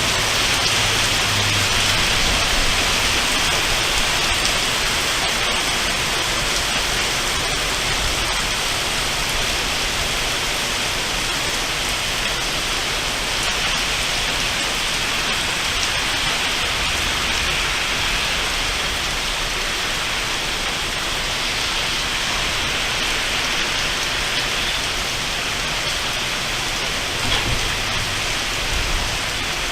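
Heavy rain pouring down in a thunderstorm, a steady dense hiss, with faint low thunder rumble near the start and again near the end.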